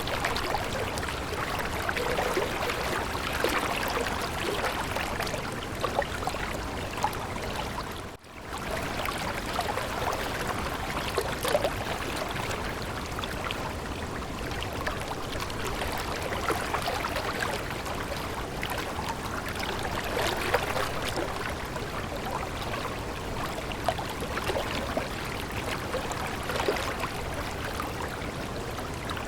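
Stream water running and babbling steadily, with many small splashes and trickles. About eight seconds in, the sound cuts out for a moment and then comes back.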